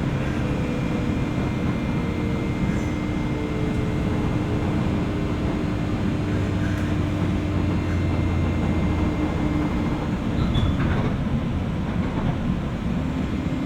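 JR West 201 series electric train running, heard from inside the motor car above its armature-chopper control: steady wheel and rail noise with a continuous hum from the traction equipment. A lower hum swells from about halfway in and fades around three quarters of the way through. A few light knocks come near the end.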